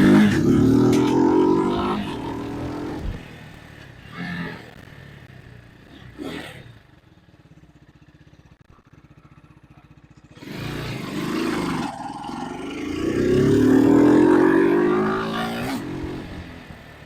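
Vitacci GTT250's 229cc single-cylinder four-stroke engine revving up twice, its pitch climbing each time. Between the two runs it drops back to a quiet low putter for a few seconds.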